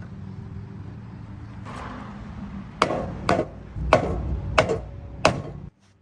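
A steady low engine hum with five sharp knocks, evenly spaced a little over half a second apart, starting about three seconds in. The sound cuts out abruptly near the end.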